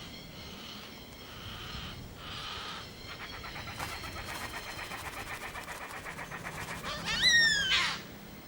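Yellow-tailed black cockatoos at a feeding: harsh, raspy begging calls from the almost fully grown chick, turning into a fast rattling stutter, then about seven seconds in a loud drawn-out call that rises and falls.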